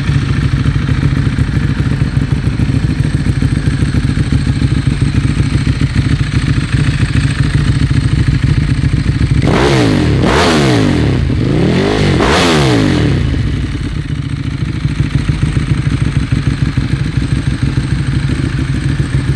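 Ducati Streetfighter 1098 S's L-twin engine, fitted with a full Termignoni exhaust, idling with a lumpy beat. About ten seconds in it is revved twice, the pitch rising and falling each time, then it settles back to idle.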